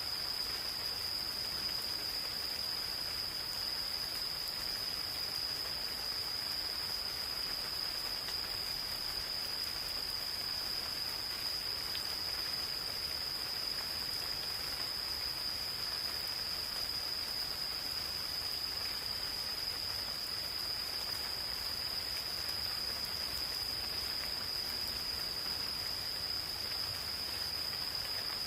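Gentle rain falling steadily in a forest, with insects calling; one insect holds a continuous high-pitched trill at a single pitch throughout.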